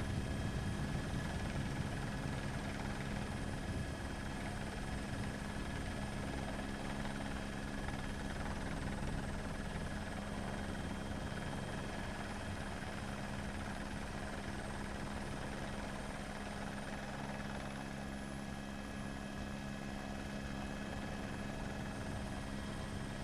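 Helicopter running steadily: a constant high turbine whine over the low beat of the rotor, with no change in pitch or loudness.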